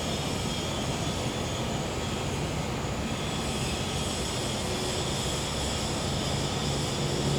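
Gas-powered generator running with a steady engine hum, joined by the steady high trilling of crickets and cicadas.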